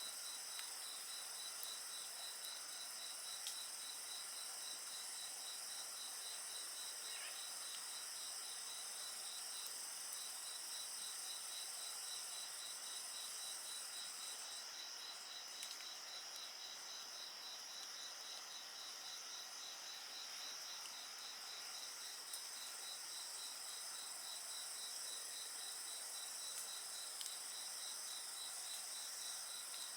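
Insects chirping at night, one repeating a high, even chirp several times a second, over a steady, higher trill that drops out about halfway through. A few faint pops come from the bonfire.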